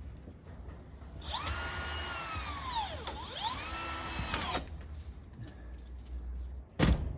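Cordless drill driving a self-tapping screw: the motor whine spins up, sags low in pitch about halfway through as the screw bites, picks back up, then stops after about three seconds. A short, loud burst of sound follows near the end.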